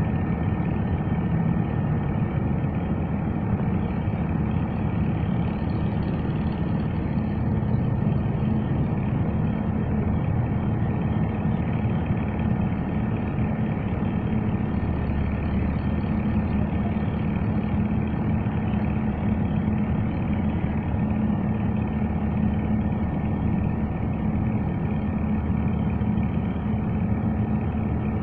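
A heavy engine running steadily at an even speed, with no revving or stops.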